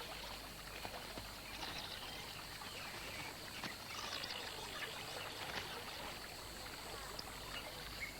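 Faint riverside ambience: scattered short bird chirps and calls over a soft, steady watery hiss.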